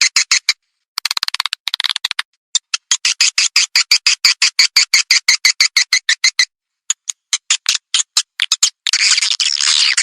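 Edible-nest swiftlet lure call: rapid trains of short, sharp chirps, about eight a second, broken by abrupt silent gaps, with bursts of dense twittering about a second in and near the end.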